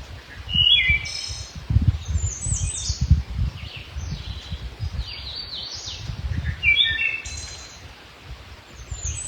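A songbird singing short phrases of quick, high notes, repeated every few seconds, over an uneven low rumble.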